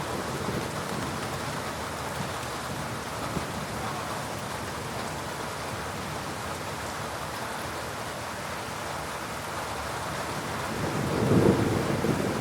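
Steady heavy rain falling during a thunderstorm, with a low rumble of thunder swelling up near the end.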